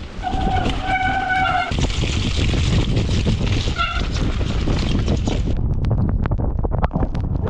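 Mountain bike descending a rough, wet trail: wind and tyre rumble with the bike rattling. Twice, about a second in and again about four seconds in, there is a short squeal from the disc brakes. Sharp knocks come thicker near the end as the bike hits bumps.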